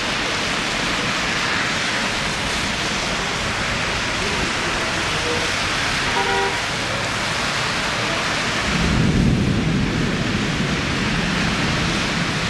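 Rain falling steadily, a loud even hiss. About nine seconds in, a deeper low rumble joins it.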